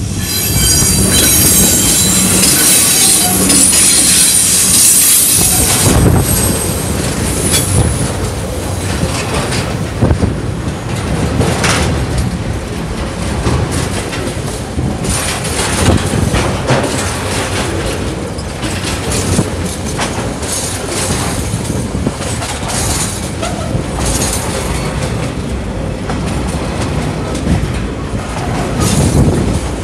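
TasRail TR-class diesel-electric locomotives passing close by, with a loud pitched sound for about the first six seconds. Then a long train of loaded container wagons rolls past, its wheels knocking irregularly over the rail joints.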